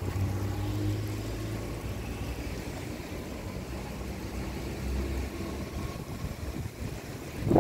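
Steady low hum of an idling vehicle engine, with sandstorm wind blowing over it.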